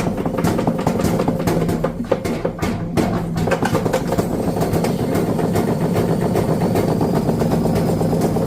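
Washing machine running with a steady motor hum, shaking and rattling with rapid knocks through the first few seconds before settling into a more even run.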